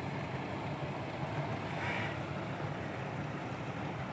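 Heavy diesel engine running steadily at low revs, a constant low hum.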